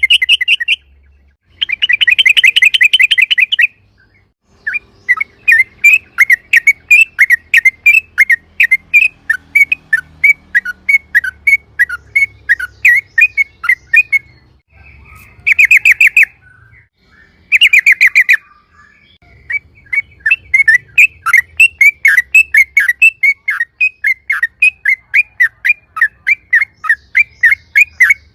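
Yellow-vented bulbul (trucukan) calling loudly: bursts of fast bubbling trill alternate with long runs of short, chirping notes repeated about three to four a second, with short pauses between phrases.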